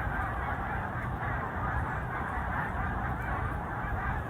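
A huge migrating flock of snow geese calling overhead: a dense, steady chorus of overlapping honks with no pauses.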